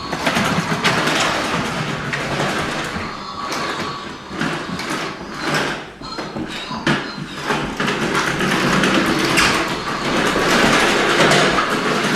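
Vacuum cleaner being pushed around by a small child: an uneven, rattling whirr that swells and dips as it moves.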